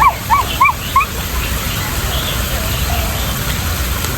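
A bird calling a quick run of short arched notes, about three a second, each a little higher than the last, stopping about a second in, over a steady low rumble.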